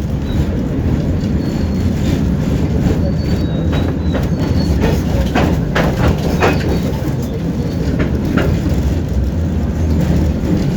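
Tram running along the track, heard from inside the car: a steady low rumble, with a quick run of wheel clacks over rail joints a little past halfway and another single clack about three seconds later.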